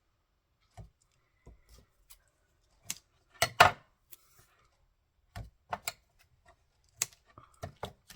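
Paper and cardstock being handled on a craft table: scattered light taps and clicks, with a louder brief rustling scrape about three and a half seconds in.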